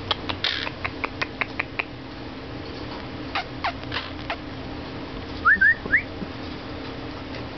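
Pet bird calling: a quick run of sharp clicks, then a few short falling chirps, and three quick rising whistles near the end, the loudest of the calls.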